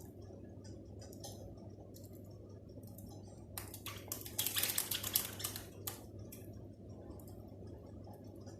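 Birds pecking and scrabbling at their food: light scattered clicks and taps, with a busy flurry of clicking about four to five seconds in.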